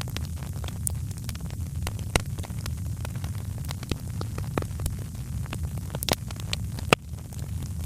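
Wood fire crackling with frequent sharp pops over a steady low rumble, one pop louder than the rest near the end.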